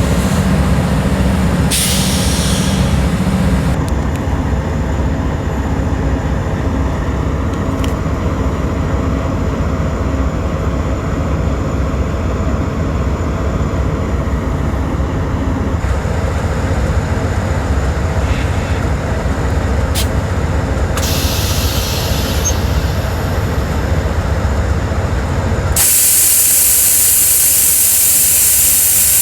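Train rumbling heavily, with two short bursts of hissing along the way. Near the end the rumble drops away and a loud, steady hiss takes over.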